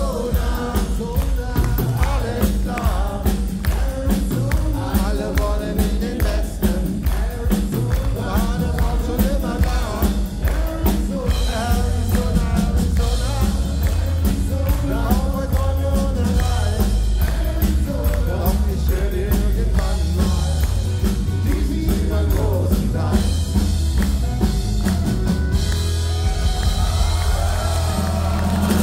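Live country-rock band playing and singing, with a steady drum beat under the lead vocal.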